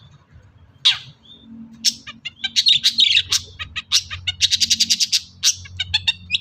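Long-tailed shrike (cendet) singing its mimicking song. A sharp falling call comes about a second in. From about two seconds on it gives fast runs of quick, high, chattering notes, including a rapid trill.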